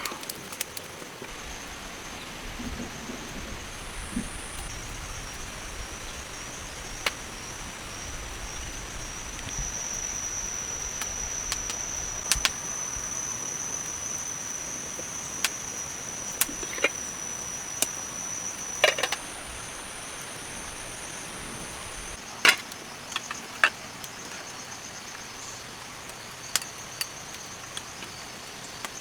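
Rainforest insects trilling in a steady high, slightly warbling tone that stops about two-thirds of the way in. Scattered sharp clicks and knocks sound throughout.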